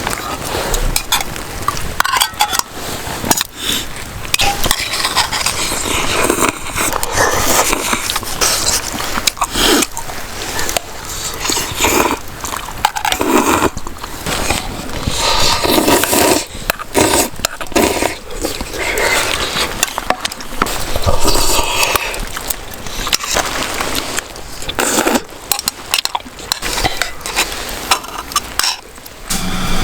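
Dishes, pots and utensils clattering and scraping, a busy run of clicks and knocks.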